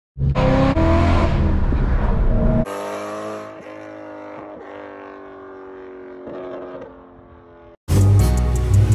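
BMW E92 M3's 4.0-litre V8 through a full valved exhaust, revving hard with rising pitch, then cutting sharply about 2.5 s in to a quieter, steadier engine note that fades away. A loud new sound cuts in near the end.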